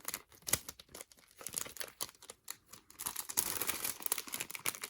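Photocard packaging crinkling and rustling as it is handled and opened, with scattered sharp crackles and clicks. The crinkling grows denser about three seconds in.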